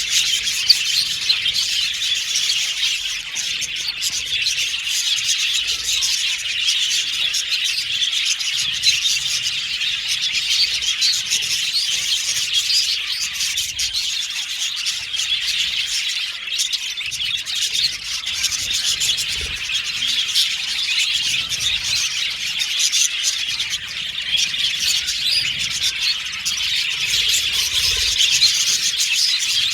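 Several budgerigars chattering and chirping at once, a steady, dense stream of overlapping high chirps and warbles without pauses.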